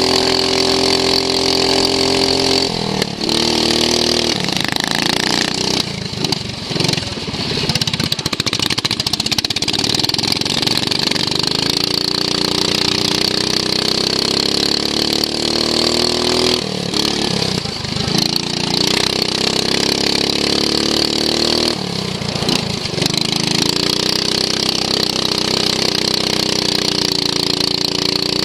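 Racing lawn mower's engine running hard at high revs, its note dropping sharply four times as the throttle comes off and climbing slowly back each time, with a steady high whine above it.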